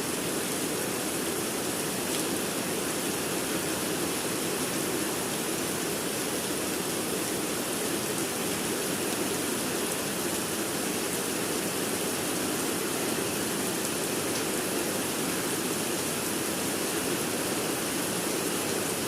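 Steady rain falling: an even, unbroken rush of noise.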